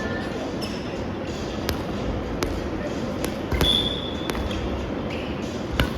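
Soft volleyball rally in a gym: about six sharp slaps of hands striking the rubber ball a second or less apart, the loudest near the end, with a short high squeak near the middle over steady hall noise.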